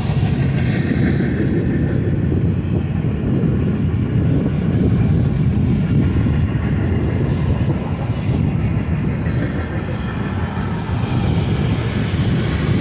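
Freight train rolling past, a steady low rumble throughout.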